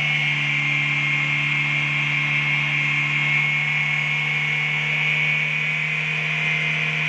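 Chevrolet Beat idling with its air conditioning compressor and blower running on full, a steady hum with a constant higher whir.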